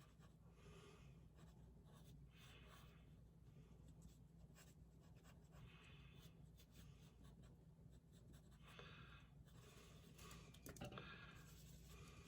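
Faint strokes of a pen on paper while drawing, a series of short scratchy scrapes coming every second or so, over a steady low hum.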